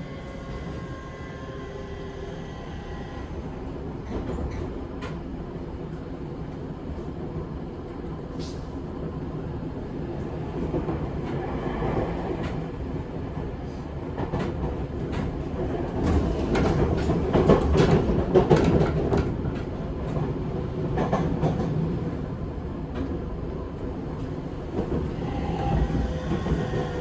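Running sound inside a Seibu 6000 series electric train car with a Mitsubishi SiC-VVVF inverter: steady wheel and motor noise with faint whining tones. The wheels clatter over rail joints and points, loudest and busiest about two-thirds of the way in.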